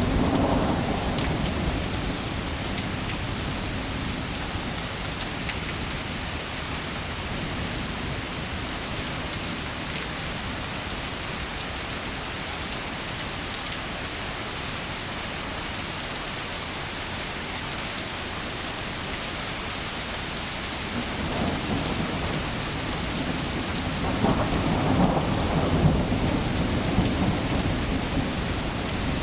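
Steady rain with rumbles of thunder: one dying away in the first second or so, and a longer roll building about three quarters of the way through and fading shortly before the end.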